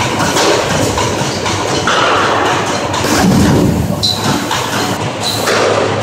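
Schlatter MG 303 wire-mesh welding machine running: a rapid, regular mechanical clatter over a steady low hum.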